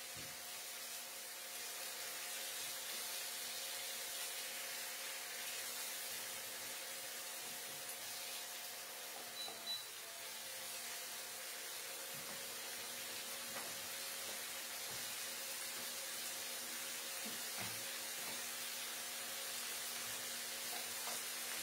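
Chicken pieces frying in oil in a nonstick pan, a steady gentle sizzle over the constant hum of an induction cooktop. A couple of light spatula taps come near the middle and later on.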